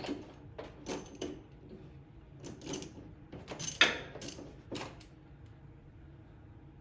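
Metal hand tools clinking and knocking, about a dozen separate sharp clanks over the first five seconds with the loudest around four seconds in, as work starts on taking out the mower engine's spark plugs.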